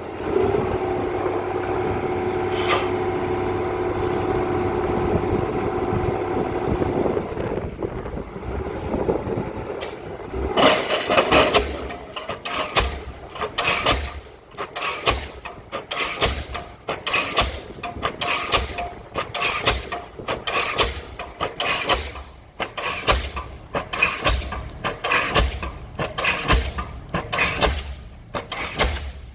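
Pile-driving rig with a diesel pile hammer. For the first seven seconds a steady machine whine sounds. About ten seconds in, the hammer starts firing, and heavy blows then repeat evenly, about one and a half a second, as the pile is driven.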